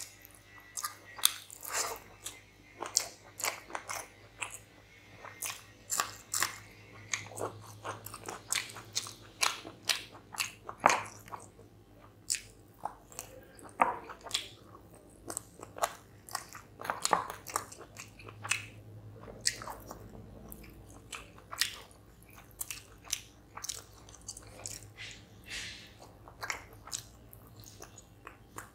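Close-miked eating of rice and chicken curry by hand: chewing and biting with a steady run of short wet clicks and smacks, one or two a second.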